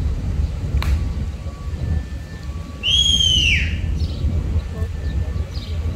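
A single high bird call about three seconds in, arching and then falling in pitch over about half a second, heard over steady wind rumble on the microphone with faint chirps around it.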